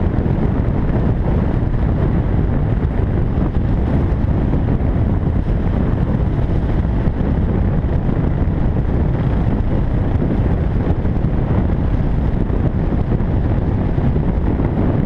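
Dirt bike running under way, its engine noise mixed with heavy wind buffeting on the microphone, steady throughout.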